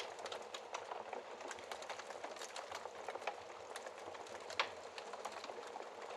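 Logs burning in a fireplace, crackling: a steady hiss full of small pops, with one louder pop a little past halfway.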